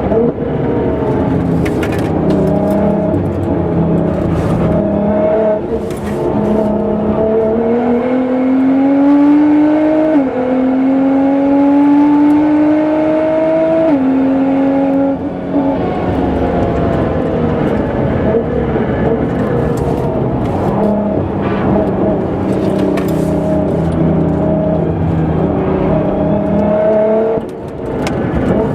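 Nissan GT-R R35 twin-turbo V6, tuned to about 700 hp, driven hard on a race circuit. The engine note climbs under full throttle and drops sharply at upshifts about ten and fourteen seconds in. It falls away after that, then builds again through the rest of the stretch.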